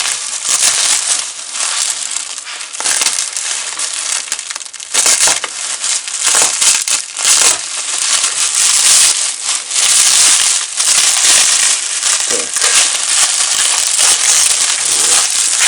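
Plastic packaging crinkling and rustling continuously as a parcel is cut open with a knife and unwrapped.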